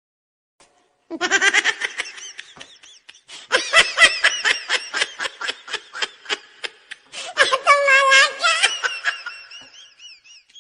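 Laughter sound effect: a high-pitched voice laughing hard in quick bursts, about four or five a second, in three stretches, the last trailing off into thin high squeals.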